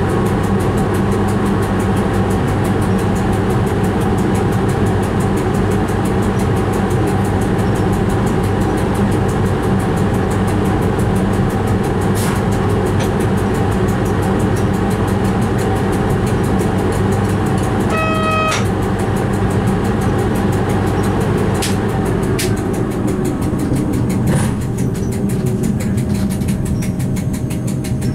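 A train running along the track, heard from inside the driver's cab: a steady hum and rumble, with a few sharp clicks. About two-thirds of the way through there is a brief high toot lasting under a second, and near the end the hum eases off slightly.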